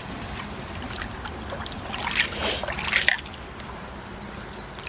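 Water splashing and sloshing, loudest in a few splashes between two and three seconds in, over a steady low rumble.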